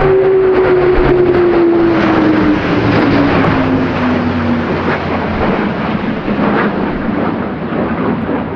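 Military aircraft passing low overhead: loud engine roar with a tone that drops steadily in pitch over the first four seconds or so as it goes by.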